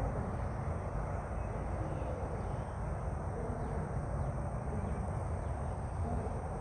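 Outdoor ambience: a steady low rumble with a few faint, short falling bird calls in the middle.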